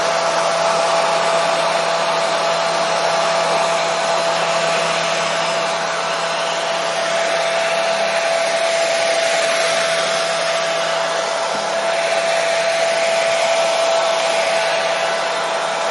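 Hair dryer running steadily: a constant rush of blowing air with a steady whine from its motor and fan, played as white noise to soothe a colicky newborn to sleep.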